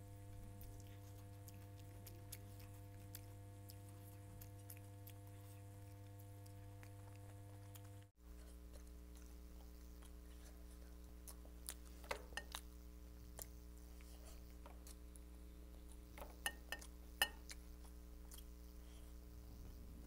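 Faint chewing and mouth sounds of someone eating spicy fried rice by hand, with clusters of sharper clicks about twelve seconds in and again near the end, over a steady low hum that cuts out briefly and changes pitch about eight seconds in.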